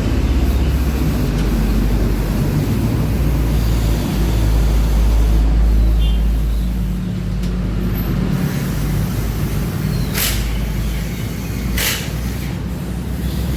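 Yamaha Lexi scooter's single-cylinder engine being electric-started cold with no throttle, running with a heavy low sound that swells about four seconds in and eases after about six seconds. This is the hard cold-start the owner complains of. Sharp clicks come near the end.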